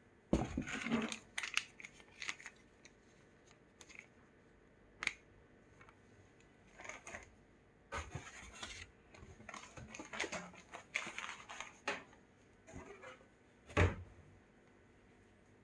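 Packaging being handled and opened: irregular rustling, scraping and light clicks, with a sharper knock near the end.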